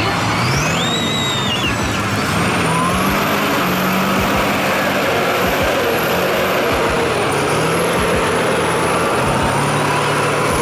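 Heavy vehicle engine running steadily under load, its low note stepping up and down, with a thin high whistle drifting in pitch above it.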